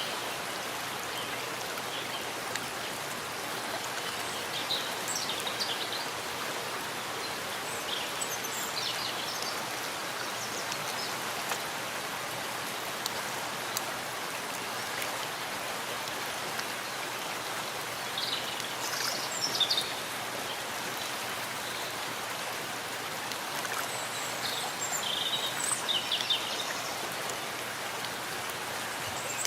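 Steady rain falling in a forest, an even hiss of drops on leaves, with short high bird chirps several times.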